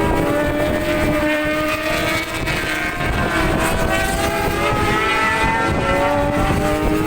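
Several racing motorcycle engines running hard at once, their pitches drifting up and down as the bikes ride the circuit, with wind buffeting the microphone.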